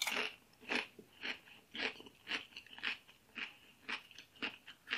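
A person chewing a mouthful of fried meatball, in a steady rhythm of about two chews a second.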